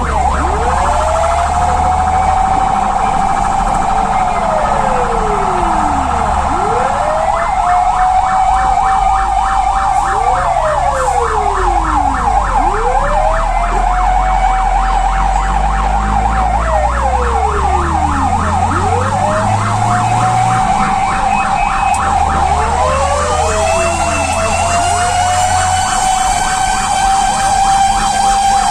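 Fire truck sirens sounding while responding: a wailing siren rising, holding and falling about every five to six seconds, overlaid with a rapid yelping siren, over the truck's engine rumble.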